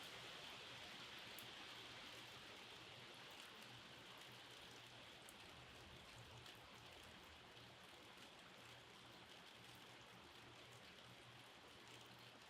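Faint, steady rain, with a scattering of sharper individual drop ticks.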